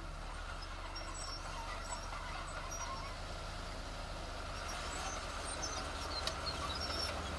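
Diesel engine of heavy earthmoving machinery running steadily with a low drone, growing slightly louder toward the end.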